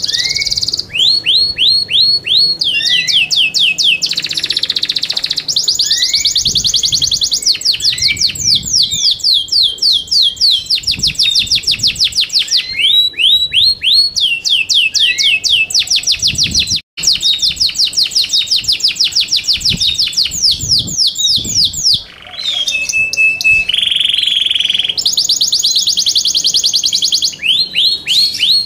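Yorkshire canary singing loudly: long runs of rapid, repeated sweeping notes in fast trills, changing from one trill to the next, with a couple of held whistled notes about two-thirds of the way through.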